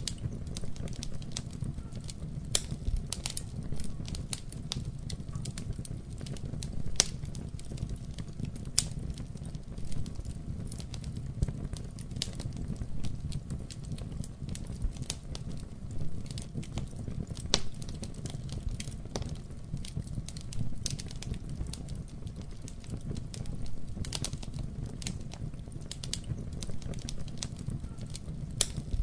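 Wood fire burning in a fireplace: a steady low rumble of flame with frequent irregular sharp crackles and pops.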